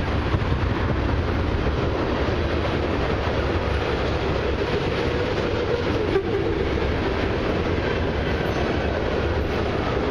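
Loaded tank cars of a long freight train rolling past, a steady rumble of steel wheels on the rails.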